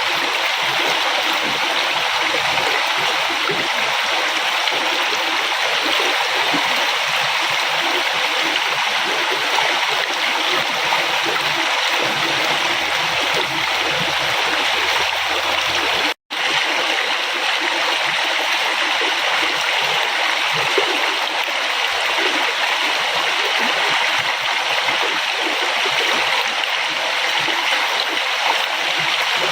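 River water flowing, a steady rushing and splashing. The sound cuts out for an instant about halfway through, then resumes unchanged.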